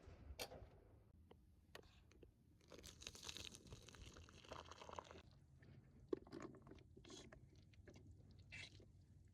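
Faint, scattered crunches, clicks and scrapes, with a longer rustling stretch about three seconds in.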